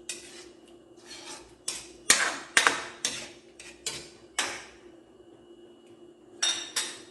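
A spoon stirring a pot of stew, scraping and knocking against the pot in about a dozen quick strokes, then a pause and two more strokes near the end.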